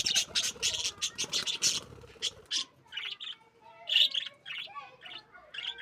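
Small pet parrots chirping: a fast run of sharp, high chirps for the first two seconds or so, then scattered single chirps.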